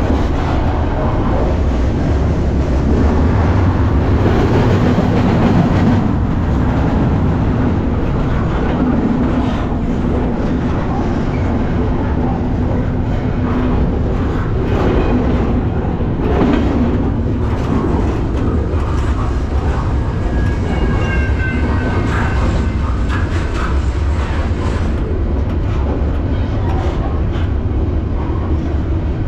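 Freight train rolling along: a loud, steady rumble and rattle of steel wheels on rail, with a faint high squeal briefly about two-thirds of the way through.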